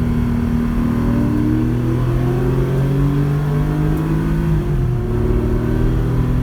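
Porsche 911 rally car's flat-six engine accelerating, its pitch rising steadily, then dropping abruptly at a gear change a little past halfway before climbing again.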